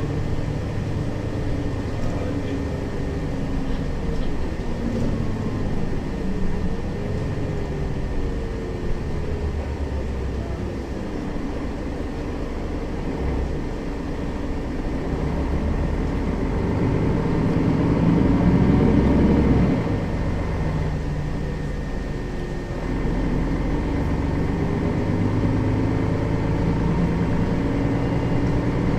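Mercedes-Benz Citaro facelift city bus heard from inside, its diesel engine and drivetrain running under way with the pitch rising and falling. The sound grows louder for a few seconds about two-thirds of the way through, then drops off suddenly and settles back to steady running.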